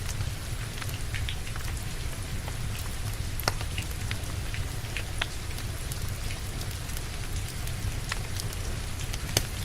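Steady rain with a deep low rumble, and scattered sharp crackles and pops from a wood fire in a fireplace, the loudest about three and a half seconds in and again near the end.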